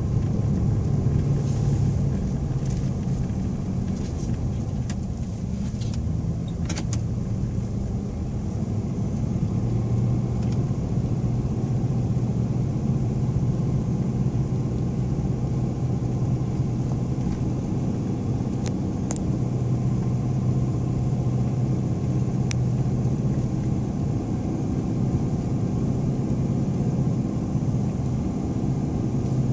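Inside the cab of a Ford SuperCrew four-wheel-drive pickup on mud tires driving slowly on a snowy road: a steady engine drone and tyre rumble, with a few light clicks.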